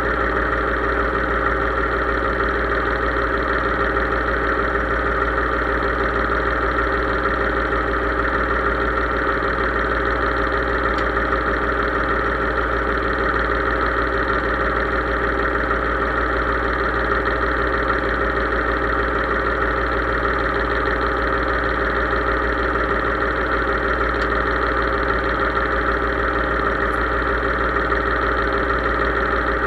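Case IH 3220 tractor's diesel engine running steadily at a constant speed.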